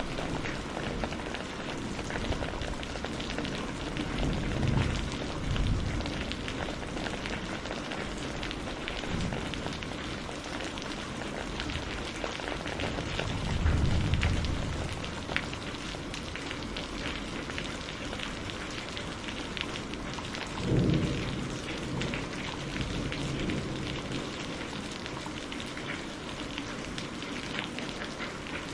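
Steady heavy rain falling, with low rumbles of thunder swelling briefly three times: about a fifth of the way in, near the middle, and about three quarters of the way through.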